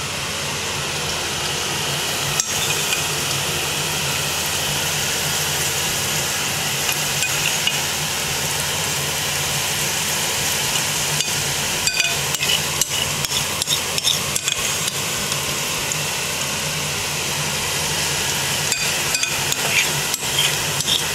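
Prawn fritter batter frying in hot oil in a frying pan: a steady sizzle, with a few sharp clicks a couple of seconds in, about halfway and near the end.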